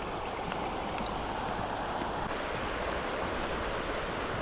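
Steady rush of river water flowing through a fast run, an even hiss with no change.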